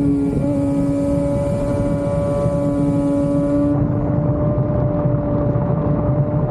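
Inline-four sport motorcycle engine running at steady revs while riding, its tone holding almost constant, over wind and road noise.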